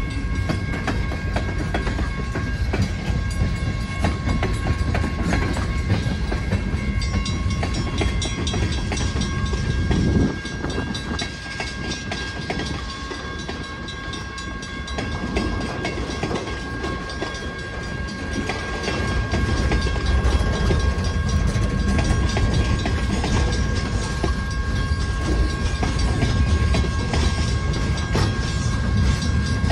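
Freight cars rolling past on the Great Lakes Central Railroad, a steady rumble with wheels clicking over the rail joints. It drops off suddenly about ten seconds in and builds again about twenty seconds in. Faint steady high tones run over the top throughout.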